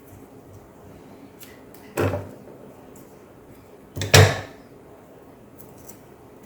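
White adhesive tape being pulled off its roll in two short rasping strips, about two seconds in and again, louder, about four seconds in, with a few light handling clicks between.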